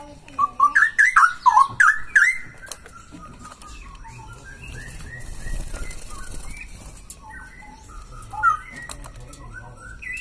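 Male straw-headed bulbul (cucak rowo) singing: a loud run of quick, rich whistled notes in the first two seconds or so, then softer scattered chirps and one more loud note near the end.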